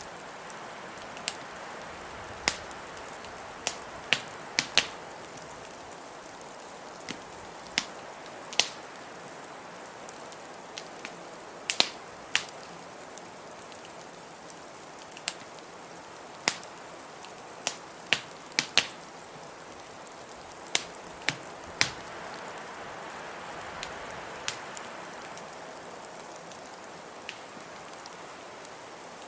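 Wood fire crackling, with sharp irregular pops every second or so, over a steady rushing hiss of blizzard wind that swells slightly about three-quarters of the way through.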